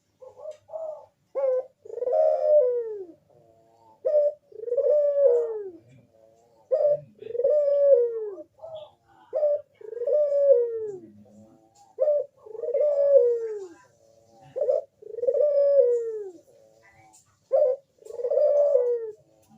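A crossbred puter dove cooing over and over, about every two and a half seconds, seven times. Each call is a short clipped note followed by a long coo that rises and then falls.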